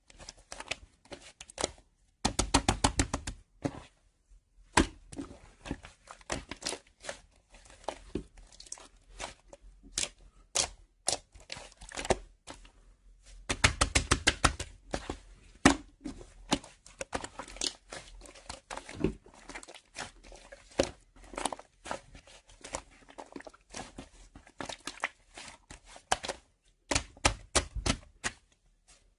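Close, irregular tapping and clicking in a small room, with quick runs of rapid taps about two seconds in, around the middle and near the end.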